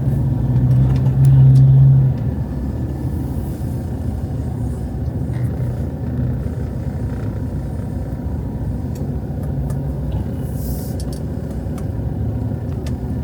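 Steady road traffic rumble, with one vehicle's engine running louder in the first two seconds.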